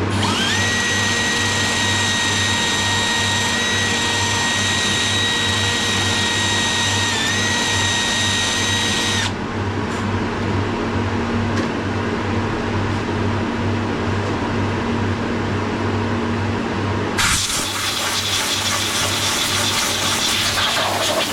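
A small power tool's motor spins up to a steady high whine, runs for about nine seconds with a brief dip, and stops. Later a hiss starts and carries on to the end.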